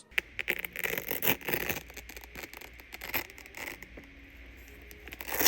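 The hook-and-loop strap across a Nike Air Huarache 2K4 sneaker's midfoot being pulled open and pressed back, with crackling and scraping from the strap and the shoe being handled. A sharper, louder rip comes near the end.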